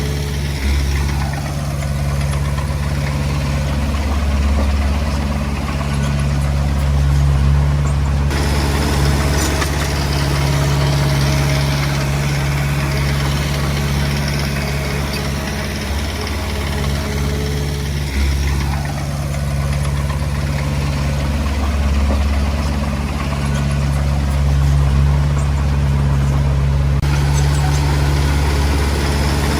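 Komatsu D20P bulldozer's diesel engine running steadily, with a brief falling sweep about a second in and again about two-thirds of the way through.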